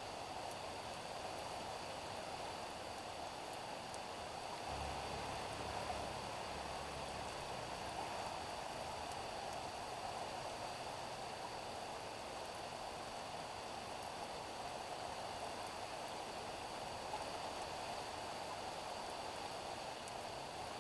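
Steady rain falling on a street, an even hiss of drops. A low rumble joins it from about five to eight seconds in.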